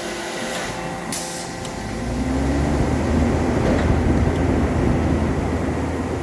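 Mazak FH-6000 horizontal machining center working through an automatic tool-change cycle. A short hiss of air comes about a second in. From about two seconds in, a louder mechanical run begins, with a rising tone over a low rumble.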